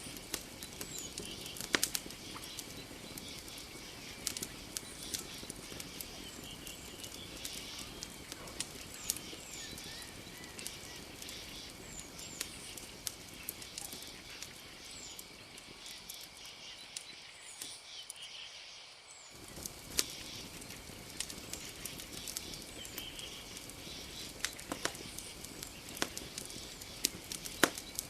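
Campfire crackling, with sharp pops scattered irregularly over a steady low hiss and a thin, steady high tone. The low background drops away for a few seconds after the middle, then comes back abruptly.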